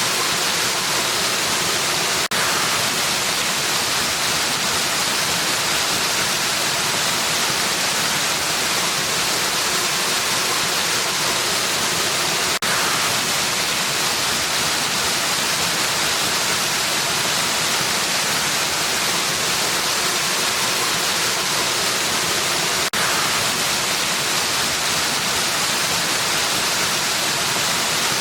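Steady rushing waterfall, an even hiss heaviest in the upper range, with a brief dropout about every ten seconds.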